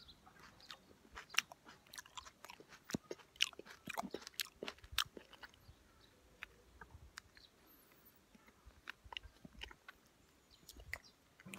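Close-miked chewing of ripe cherry plums: a run of short wet mouth clicks and smacks, thickest in the first few seconds and sparser after.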